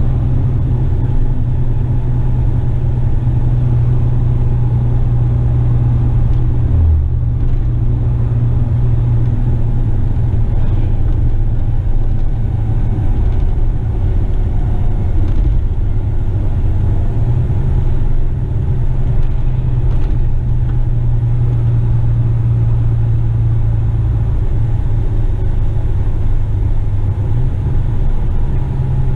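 Western Star tipper truck's diesel engine running steadily while the truck is driven, a continuous low drone with road noise.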